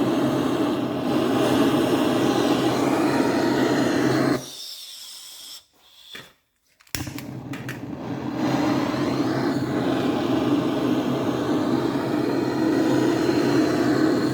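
A heating tool blows steadily as it heats the aluminium front main bearing support of a BMW R60/5 crankcase, so that the main bearing can be pressed in. The sound stops about four and a half seconds in, leaving a short near-silence with faint clicks, and starts again about seven seconds in.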